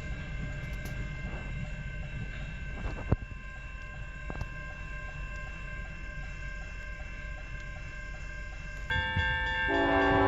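A train rolling past with a steady low rumble and a few steady high tones over it, and a single sharp knock about three seconds in. Just before the end, a set of ringing, chime-like tones sets in.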